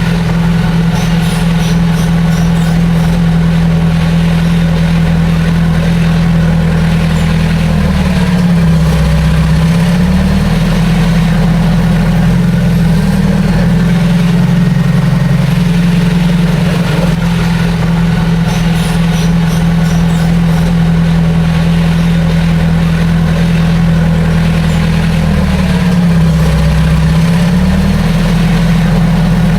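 Bulldozer's heavy diesel engine running steadily, its pitch sagging briefly twice, about eight seconds in and again near the end.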